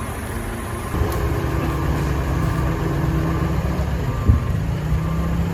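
A heavy vehicle's engine running steadily, getting louder about a second in, with a single knock about four seconds in.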